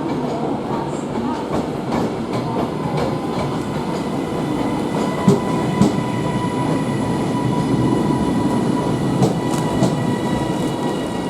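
A Class 331 electric multiple unit coming into the platform, its wheels clicking over rail joints and points above a steady rumble, with a high whine held through the passage.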